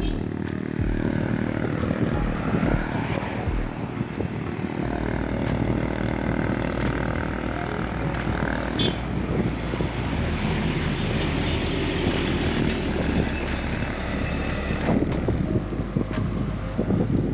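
Wind rushing over the microphone, with road noise, while riding a mountain bike; a steady low rumble sets in about five seconds in.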